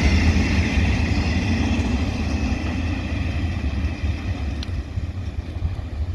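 Diesel train rumbling past, the heavy engine and wheel noise slowly fading as it moves away, with a faint click about four and a half seconds in.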